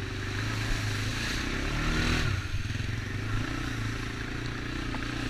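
ATV engine running at low speed, revving up and back down once about two seconds in.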